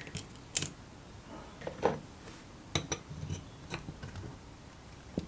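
Hand work on a small metal solenoid pump with tools: a few sharp metallic clicks, two of them close together about three seconds in, and a short scrape a little before that.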